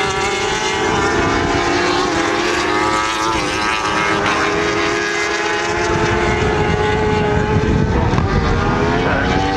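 Racing motorcycle engines at high revs on the circuit, several engine notes overlapping and rising and falling in pitch as bikes pass.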